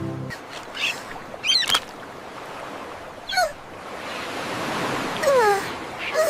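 Several short, squeaky bird calls, each falling in pitch, over a steady wash of surf, with one sharp click near the second call.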